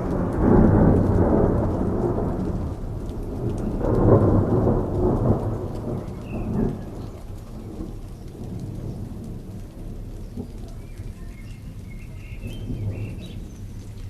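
Steady rain in a thunderstorm, with a roll of thunder at the start and a second one about four seconds in, each dying away into the rain.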